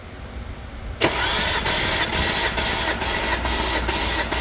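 Starter motor cranking the Audi 3.0 TFSI supercharged V6 during a compression test. It begins suddenly about a second in and runs steadily, with a regular beat about twice a second.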